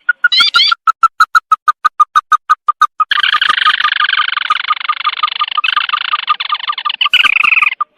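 Crake (tikusan mata merah) lure call: a fast series of short clipped notes, about eight a second, breaking about three seconds in into a dense rapid trill that runs for several seconds before dropping back to single notes.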